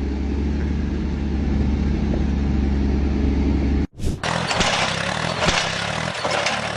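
A vehicle engine runs with a steady low drone. After a short break about four seconds in, another engine is heard running, with a hiss and scattered sharp knocks and clatters over it.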